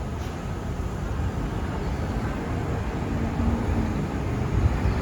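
Steady low rumbling noise that grows slowly louder, of the kind made by passing traffic or wind.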